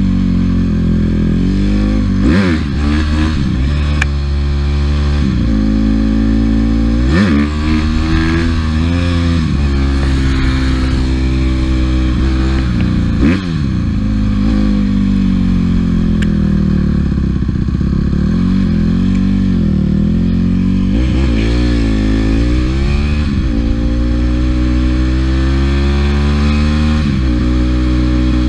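Dirt bike engine running hard under riding, its pitch repeatedly climbing and falling as the throttle is worked, with short sharp drops about 2, 7 and 13 seconds in.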